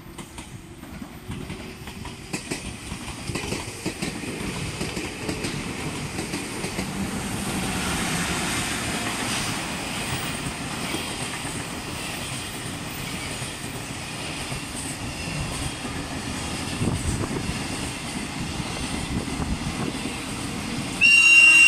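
Container freight wagons rolling past, their wheels clicking over the rail joints, growing louder over the first several seconds and then holding steady. About 21 s in, the approaching 681 series limited express sounds its horn, a sudden loud, steady high-pitched tone.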